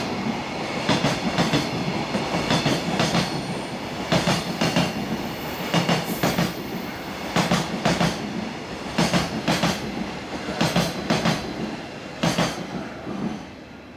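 Wagons of a high-speed freight train going by at speed, their wheels clattering over the rail joints in quick pairs and groups of clicks over a steady rumble.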